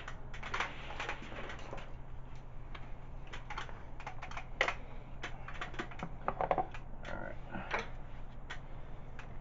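Scattered light clicks and taps of hand tools and small metal parts being handled while working on a dirt bike, a few sharper knocks among them, over a low steady hum.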